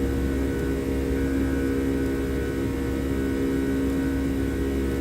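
Boeing 737 jet engines heard from inside the cabin during the climb after takeoff: a steady drone with a few held tones, unchanging in level.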